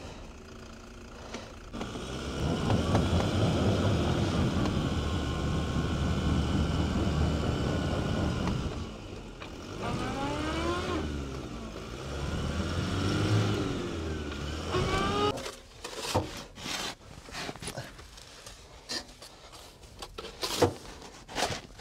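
Vehicle stuck in deep snow, its engine revving as the wheels fail to grip, the pitch rising and falling several times. About fifteen seconds in, the engine drops away and scattered knocks and crunches follow.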